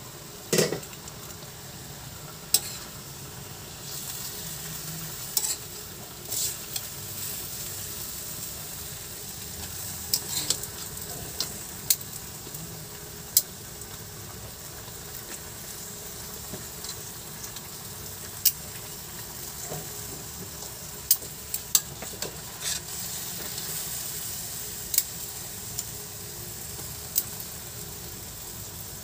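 Pork and potato chunks sizzling in a metal wok, with metal tongs clicking and scraping against the pan as the pieces are turned. Sharp taps come every second or two, the loudest about half a second in.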